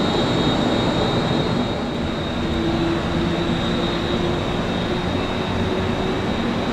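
Jet airliner engines: a steady roar with a high, steady whine above it.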